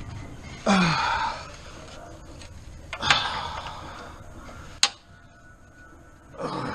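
A man grunting and breathing hard with effort while straining on a tight 14 mm bolt with a ratchet, too short for the job. There is a falling grunt about a second in, a harsh breath around three seconds, a single sharp click near five seconds, and a breathy gasp near the end.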